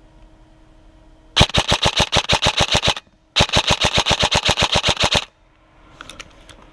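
Airsoft gun firing full-auto in two bursts of rapid, evenly spaced shots, about ten a second, each burst lasting under two seconds with a short pause between them.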